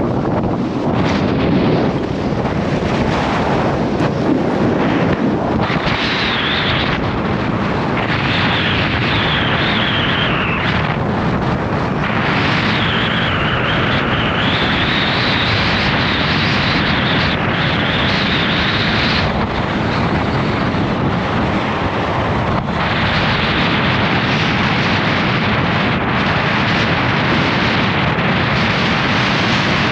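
Gale-force wind buffeting the microphone: a loud, continuous rushing rumble that rises and eases in gusts.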